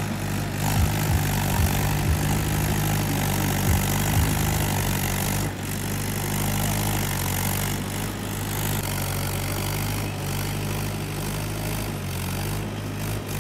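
Mahindra 595 XP Plus tractor's diesel engine running steadily at an even speed.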